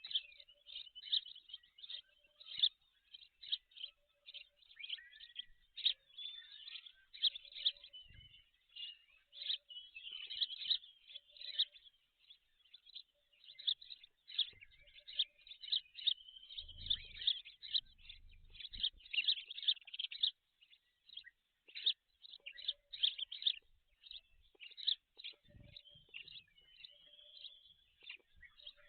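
Dense, rapid chirping of birds that goes on without a break. Faint short low notes repeat in twos and threes behind it, and there are a few dull low thumps.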